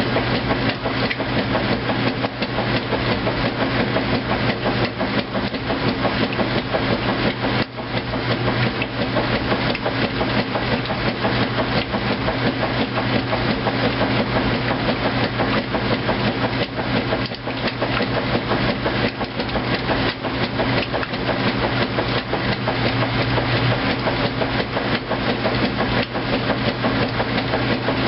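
2008 Kenmore top-load washing machine running on its heavy duty cycle: a steady motor hum with a fast, even rattling over it.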